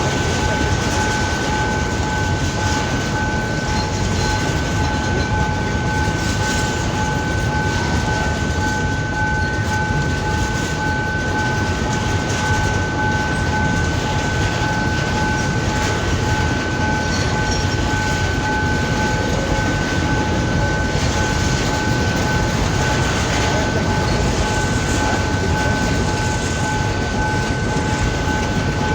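Freight train rolling past: the steady rumble and rattle of its wagons on the rails, with two steady high tones held throughout.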